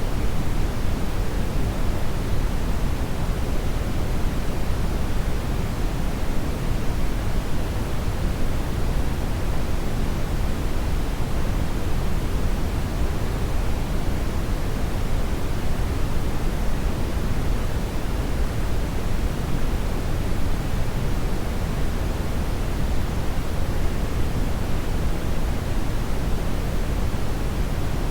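Hair dryer running steadily: an even rush of air, heaviest in the low end, with no change in pitch or level.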